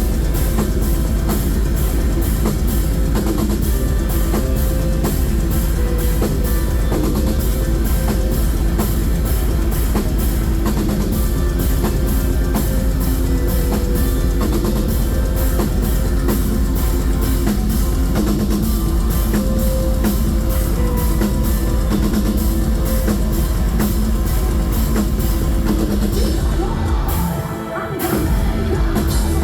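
Metal band playing live, with the drum kit driving a steady beat under distorted guitars and bass. Near the end the sound briefly drops away, then the full band comes back in.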